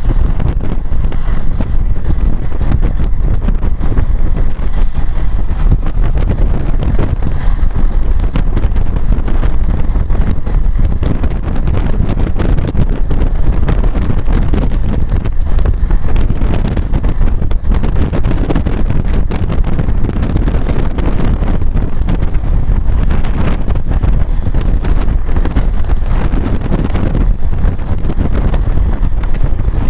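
Wind buffeting the microphone on a moving motorbike, a loud steady rumble, with the bike's running and road noise beneath it.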